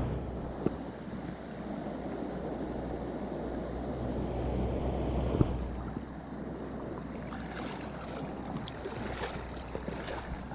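A mountain stream running steadily, a continuous rushing of water, with two brief soft knocks and lighter, sharper water sounds in the second half.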